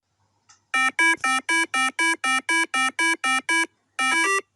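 A rapid string of short electronic beeps, about four a second, mostly on one pitch. Near the end comes a brief gap, and then the beeps go on at a slightly higher pitch.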